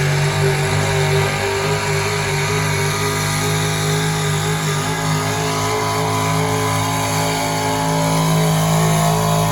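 Truck engine running hard at high revs: it revs up just before and holds a steady pitch, then climbs slightly in the last few seconds.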